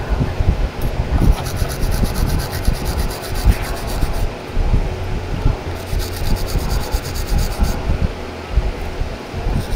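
Rubbing and scraping from hand work on scooter brake parts, with two stretches of fast, even ticking.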